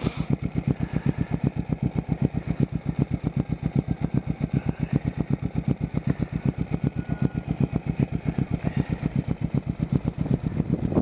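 Motorcycle engine idling steadily, with an even low pulse of about eight beats a second.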